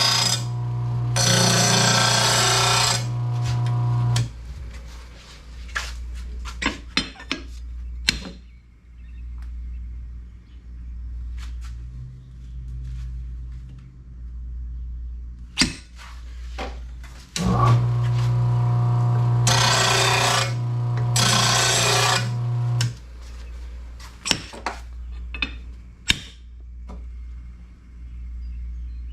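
Electric mower-blade sharpener running in two bursts, a steady motor hum with the grinding wheel hissing harshly against a steel lawn mower blade, taking more metal off one side to balance it. Between the bursts come scattered metallic clicks and knocks as the blade is handled.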